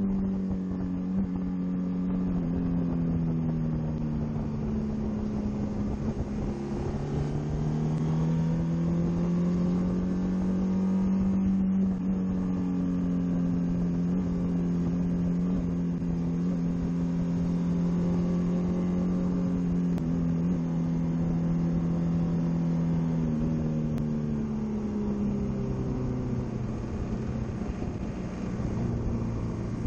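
Honda VFR800X Crossrunner's V4 engine running at road speed, its note climbing slowly for several seconds, holding steady, then dropping in steps a few seconds before the end as the rider eases off. Wind rushes past throughout.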